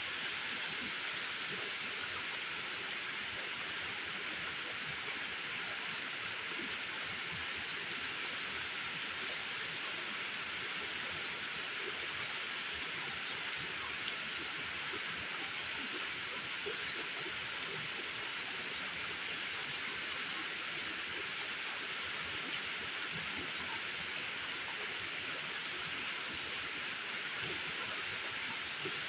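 Heavy rain falling in a steady, unbroken hiss, with faint scattered drop ticks.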